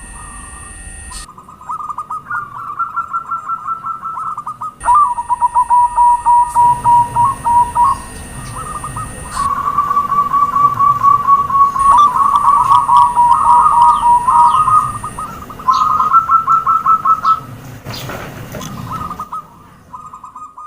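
Zebra doves cooing in their typical phrases of rapid, staccato pulsed notes, one phrase after another, some stepping up in pitch. The recording cuts abruptly between segments, and a brief noisy burst comes about eighteen seconds in.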